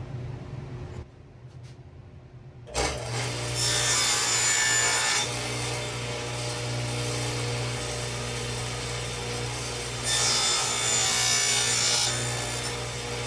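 A power saw starts up about three seconds in and runs steadily, cutting 45-degree miters in cherry wood, louder twice as the blade goes through the board.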